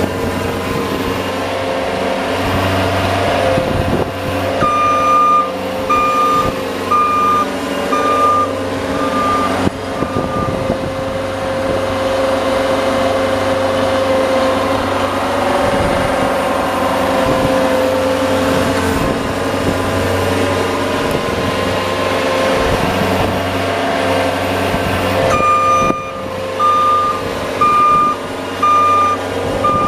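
Snow-plowing vehicle's engine running steadily. A reversing beeper sounds about once a second in two spells: first from about five seconds in for roughly five seconds, then again near the end, as the plow backs up.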